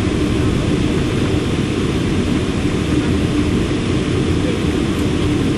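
Boeing 747-400 jet engines running steadily: a continuous rumble with a constant hum, no rise or fall in pitch.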